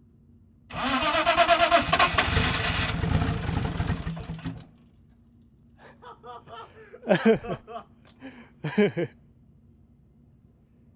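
Turbocharged BMW M50TU inline-six in an E30 being started: it turns over loudly on the starter for about four seconds, then cuts off abruptly. Short bursts of voices or laughter follow a few seconds later.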